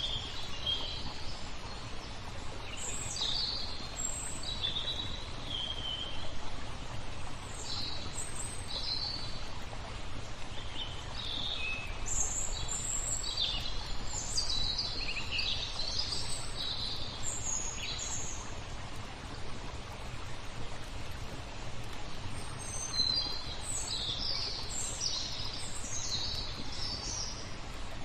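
Small songbirds chirping and twittering in quick clustered bursts, with a lull of a few seconds past the middle, over a steady wash of flowing water.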